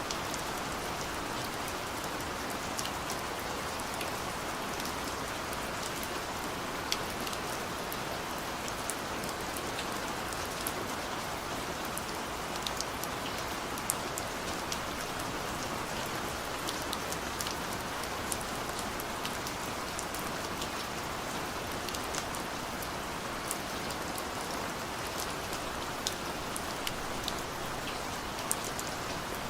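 Heavy rain pouring steadily, a dense even hiss with scattered sharp drips and drop hits on surfaces.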